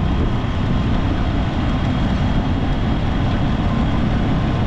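Steady wind rush and road noise from riding a small motorcycle at speed, with the bike's engine running underneath.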